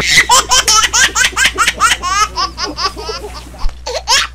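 Laughter sound effect: a fast run of high-pitched laughing syllables, several a second, each sliding in pitch.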